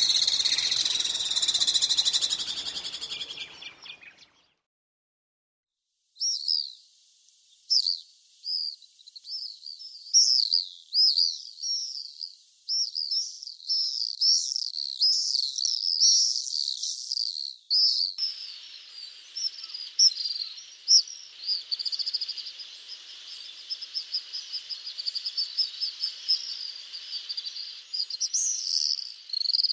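Common swifts screaming: shrill, high calls in quick series. A first bout fades out about four seconds in, followed by a couple of seconds of silence, and then the screams start again, coming one after another to the end.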